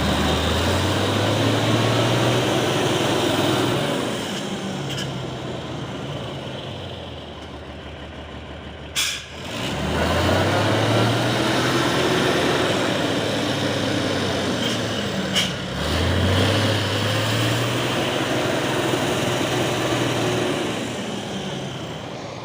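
Heavy diesel truck engine revving hard three times. Each rev rises in pitch, holds for a few seconds, then dies back. A short sharp burst comes just before the second and third revs.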